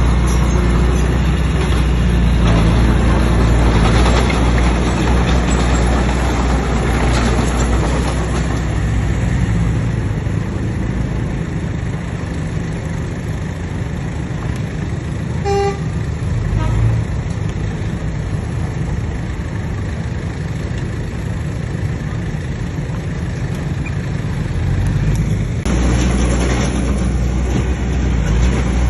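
Bulldozer's diesel engine running under load, heavier for the first third, easing through the middle and building again near the end. A single short horn-like toot sounds about halfway through.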